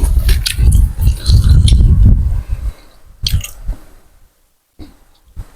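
Close-miked chewing and wet mouth sounds of someone eating soft noodles. It is loudest over the first two seconds or so, then tails off, with one short burst about three seconds in.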